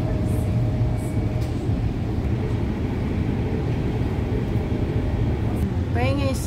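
REM automated electric light-metro train running at speed, a steady low rumble and rolling noise heard from inside the car. Near the end a voice starts singing with a wavering pitch.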